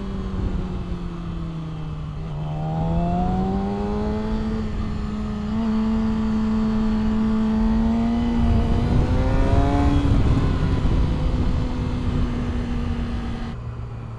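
Yamaha R6's inline-four engine under way: its note dips, then climbs through the revs with a couple of gear changes, holds, and falls to a low idle near the end. Wind rumble runs underneath.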